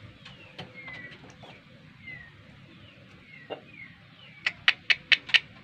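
Repeated short bird chirps, each falling in pitch. Near the end, a quick run of about six sharp taps, louder than the chirps.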